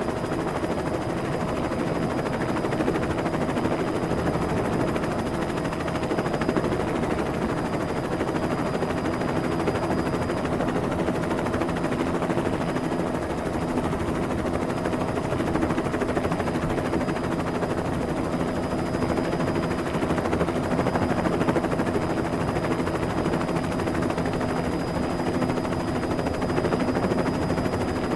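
Helicopter sound effect: a steady, unbroken rotor and engine sound with a few held tones, keeping the same level throughout.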